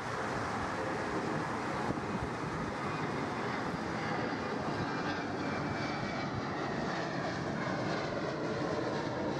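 Airliner engines running as the plane moves along the runway: a steady rushing noise, with a faint whine falling slowly in pitch in the second half.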